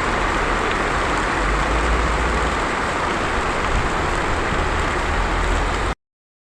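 Heavy rain falling steadily, a dense even hiss of a tropical downpour with water running in the street; it cuts off abruptly about six seconds in.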